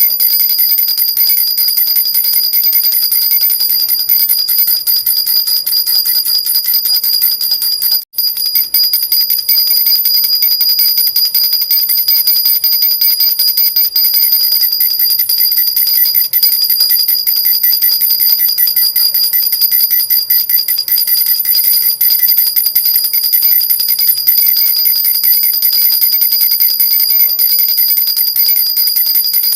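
A jhunjhuna, a metal baby rattle with small bells, shaken steadily so that its bells keep up a continuous high-pitched jingling. The sound drops out briefly about eight seconds in.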